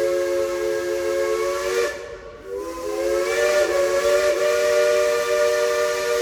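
Steam chime whistle of Baldwin steam locomotive #70 blowing a long chord of several notes. It breaks off about two seconds in, then sounds again, its pitch sliding up as it reopens before it holds steady.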